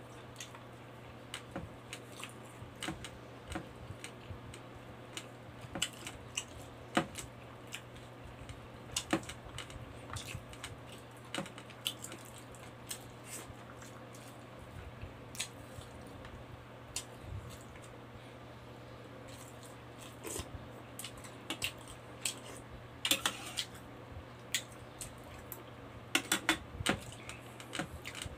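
Close-up mouth sounds of a person eating rice and pork with his fingers: wet chewing and lip smacks, heard as many short clicks, bunched more thickly near the end. A steady low hum runs underneath.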